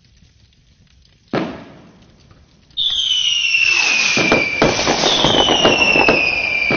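Fireworks: a single bang about a second in, then from about three seconds two high falling whistles over dense crackling.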